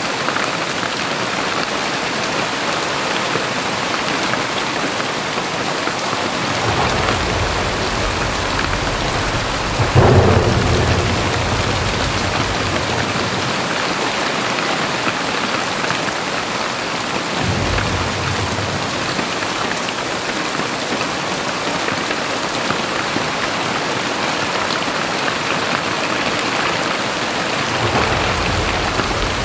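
Heavy rain hissing steadily, with low rolls of thunder: a sudden loud one about ten seconds in that fades over a few seconds, a short one just past halfway, and another near the end.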